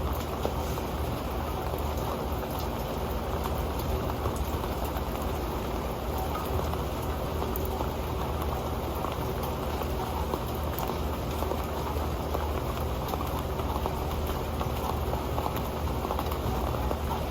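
Steady rain falling on an old pan: a dense, unbroken patter of drops with many small ticks on the pan.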